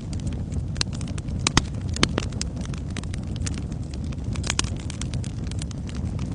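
Wood fire burning in a fireplace: a steady low rumble of flames with frequent sharp crackles and pops at irregular intervals, the loudest about a second and a half and two seconds in.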